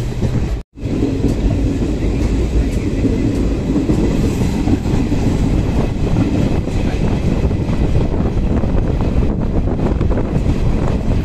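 Indian Railways passenger coach running along the track, heard from on board: a steady loud rumble with the clatter of the wheels over the rails.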